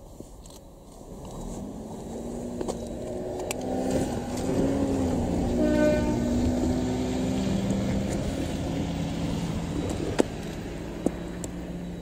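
Train running in the station, with a drone that grows louder over the first few seconds and shifts in pitch. A brief pitched tone sounds about six seconds in, and two sharp clicks come near the end.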